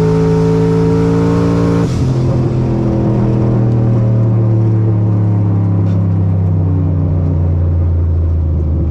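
Turbocharged pickup truck engine running at steady revs, then dropping in pitch about two seconds in and winding down slowly as the revs fall.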